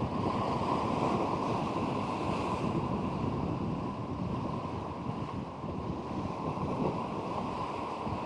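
Strong wind buffeting the microphone over the steady wash of surf on the shore.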